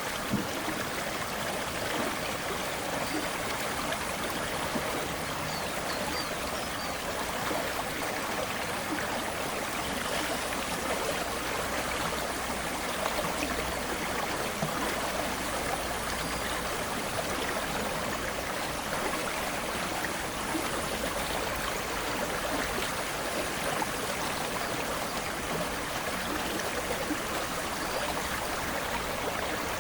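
Aare river water flowing steadily, an even rushing noise that does not change.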